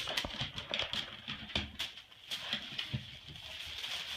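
A small bird trapped indoors fluttering and scrabbling: a string of irregular light taps and wing flaps.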